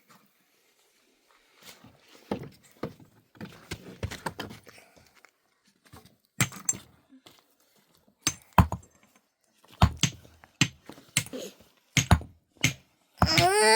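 A run of separate sharp knocks and clacks of hard objects striking, irregular and growing louder toward the end. In the last half second a child starts to wail.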